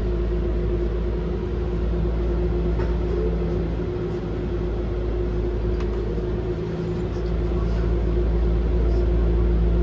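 Docklands Light Railway B92 stock train running, heard from inside the passenger car: a steady low rumble with a steady motor hum over it.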